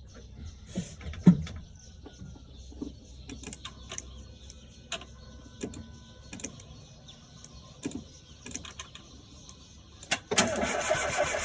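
Scattered light clicks and knocks, then about ten seconds in the Renault Clio's rebuilt engine starts and keeps running with a steady mechanical noise.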